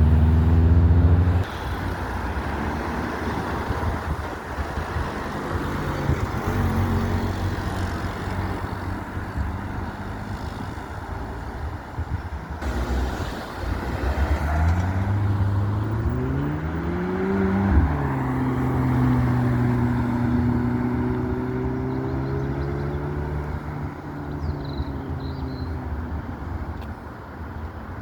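Car engines driving past: a loud engine fades away about a second in, and around the middle one engine rises in pitch for about three seconds, drops suddenly as if shifting gear, then runs at a steady note before fading.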